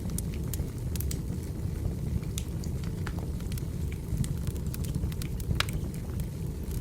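Burning firewood crackling: a steady low rumble of the fire with scattered sharp pops and snaps, several a second.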